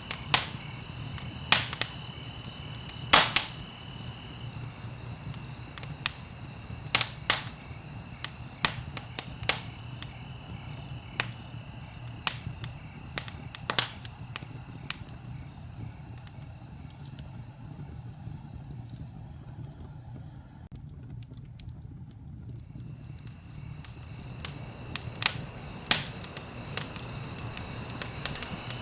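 Wood fire crackling, with irregular sharp pops, a few louder than the rest, over a steady low rumble of burning. A steady high ringing sits behind it and drops out for several seconds in the middle.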